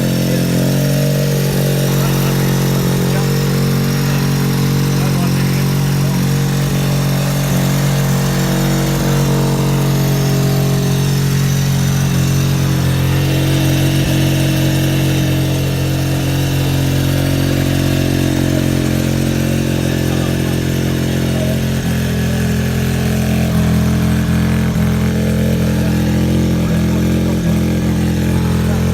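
Suzuki RE5's single-rotor Wankel engine idling steadily at an even, unchanging pitch.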